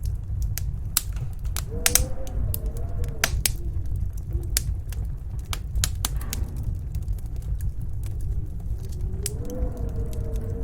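Wood fire crackling with many sharp irregular pops over a steady low rumble of snowstorm wind. A wind howl rises and falls in pitch about two seconds in and again near the end.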